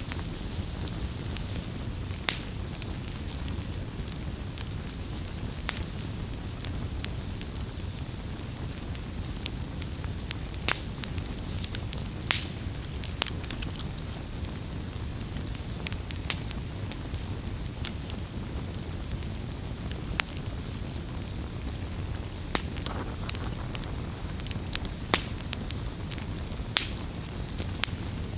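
Wood campfire crackling: irregular sharp pops and snaps, a few a second, over a steady low rumble of burning.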